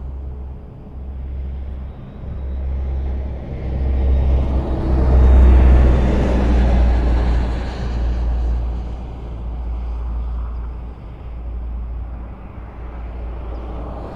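Highway traffic: vehicles passing on a road, with a steady low rumble of tyres and engines. One vehicle swells up loudly and passes about halfway through, then fades back into the general traffic.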